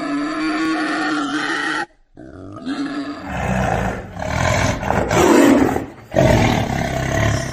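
A large animal calling: one long, steady call, a brief cut to near silence about two seconds in, then four deep, throaty calls in a row, each about a second long.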